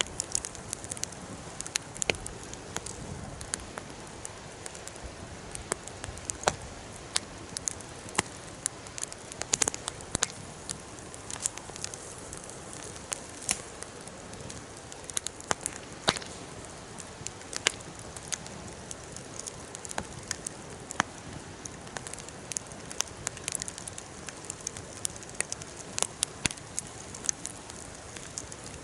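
Campfire crackling steadily, with irregular sharp pops and snaps, several a second, over a soft steady hiss.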